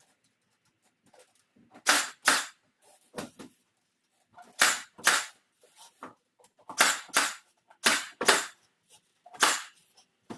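Nail gun firing into wood trim, a series of sharp shots that come mostly in quick pairs.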